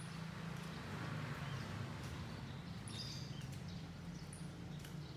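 Neighbourhood morning ambience: short, high bird chirps a few times over a steady low hum, with scattered faint clicks.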